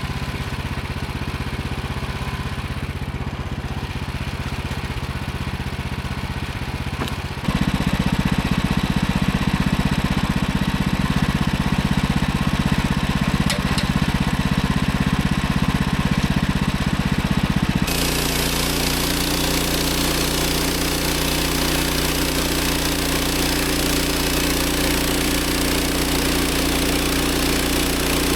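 An engine runs steadily throughout. Its pitch and loudness jump suddenly about seven seconds in and again about eighteen seconds in.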